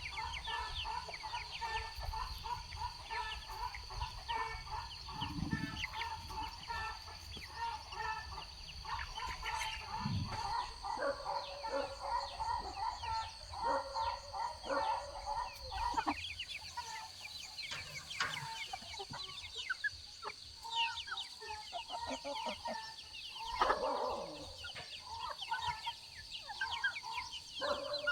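Chickens clucking in many short, repeated calls, over a steady high-pitched whine in the background.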